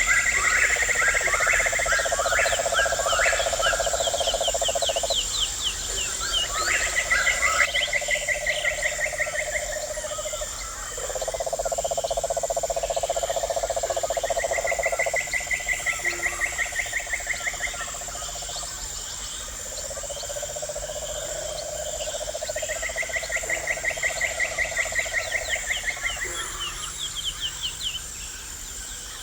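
Frogs and insects calling in a pond chorus: long pulsed trills of about four to five seconds each, at a lower and a higher pitch, taking turns and overlapping, over a steady high insect drone.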